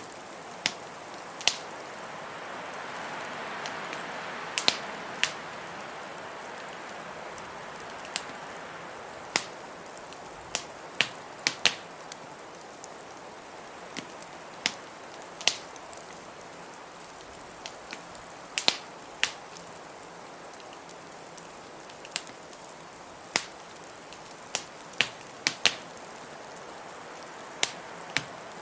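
Wood fire crackling with sharp, irregular pops, over a steady rush of blizzard wind that swells and then eases over the first several seconds.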